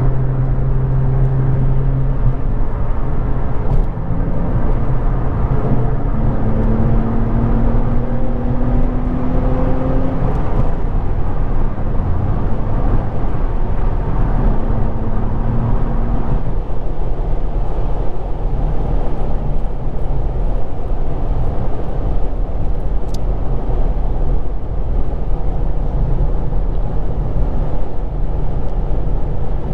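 Infiniti G35 coupe's VQ35DE 3.5-litre V6 through a Z1 touring exhaust while driving: the engine note rises in pitch between about six and ten seconds in as the car accelerates, holds a steady tone for a few seconds, then after about sixteen seconds gives way mostly to a steady rush of road and tyre noise.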